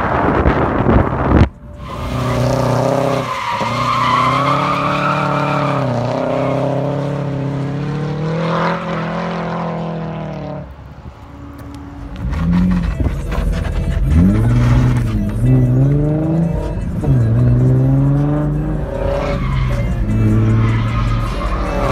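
Subaru WRX drift car's flat-four engine revving hard, its pitch rising and falling again and again as the throttle is worked through the slides, with tyres squealing. The sound cuts out briefly about a second and a half in.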